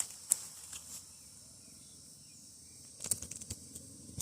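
Steady high-pitched insect chorus, with a few short clicks and rustles of handling just after the start and again about three seconds in.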